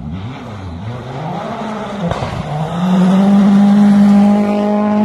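Race car engine, its pitch wavering up and down under the throttle, then rising about three seconds in to a loud, steady high note held at full revs.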